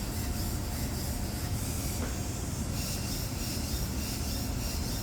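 Steady background noise: a low rumble with a faint hiss, unchanging throughout.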